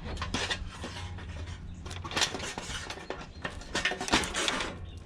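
Irregular clicks, knocks and rattles of the heater's plastic and metal parts being handled and worked apart by hand.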